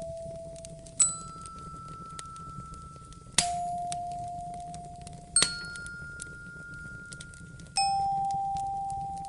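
Single bell-like chime notes struck one at a time, four of them about two seconds apart, each ringing on and fading slowly. Underneath is the faint crackle of a wood fire and a low steady rumble.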